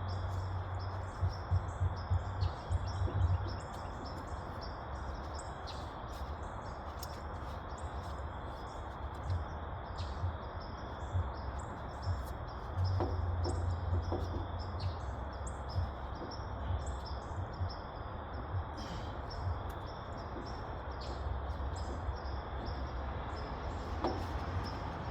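Birds chirping many times over a low rumble that swells and fades.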